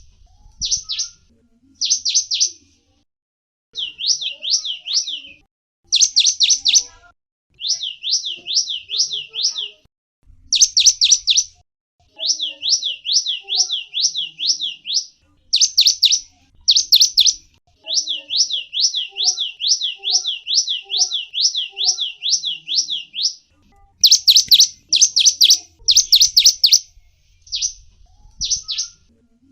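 Gelatik wingko songbird calling: bursts of sharp, high chirps alternating with long runs of quick, evenly spaced falling notes, with brief pauses between phrases.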